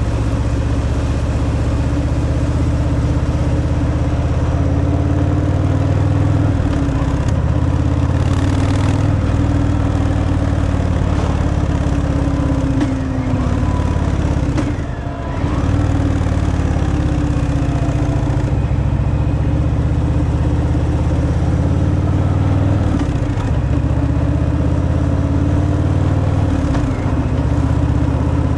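Stock Harley-Davidson Fat Boy's V-twin engine running as the bike is ridden, through its stock exhaust. The engine note dips and recovers a few times, with a brief drop in level about halfway through.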